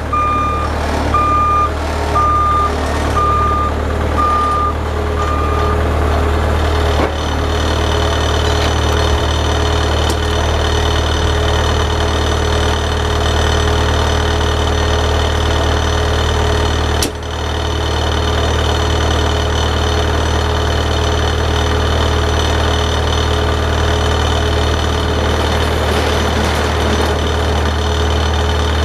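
Snow-plowing vehicle's engine running steadily, with its reverse warning beeper sounding a steady series of beeps, about one and a half a second, that stops after about six seconds while backing up. After that the engine runs on with a steady high whine over it and a brief drop about two-thirds of the way through.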